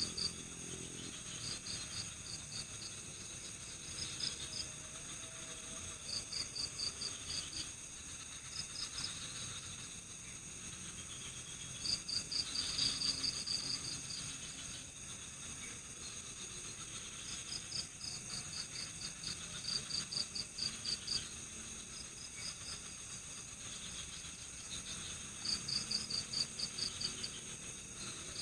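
Night forest insect chorus: a steady high-pitched drone of insects, with a cricket chirping in short fast pulse trains every few seconds, the longest and loudest about twelve seconds in.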